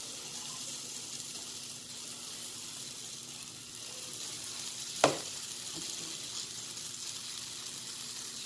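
Squash, moringa-leaf and egg batter sizzling steadily in a hot nonstick pan as it is spooned in and spread out. About five seconds in, one sharp click as the metal spoon knocks the pan.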